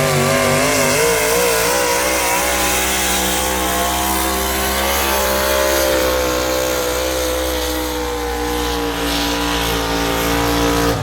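A pulling tractor's engine running hard under load during a tractor pull. Its pitch wavers rapidly at first, then holds steady and sinks slightly lower toward the end.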